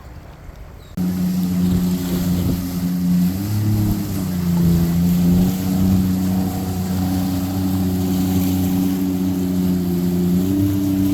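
Motorboat engines running steadily as a powerboat goes by, a droning hum that cuts in abruptly about a second in and shifts pitch a little a few times, over a wash of water noise.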